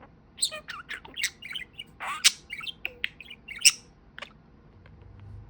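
Pet budgerigar chattering: a quick run of short chirps and squawks that stops about four seconds in.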